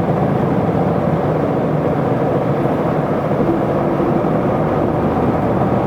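Isuzu Erga city bus's diesel engine and road noise, running steadily.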